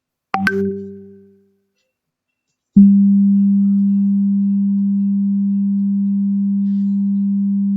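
A click with a short low hum that fades within about a second. Then, about three seconds in, a steady low pure tone near 200 Hz starts with a click and holds unchanged: a test tone from an online tone generator, played to check which frequencies listeners can hear.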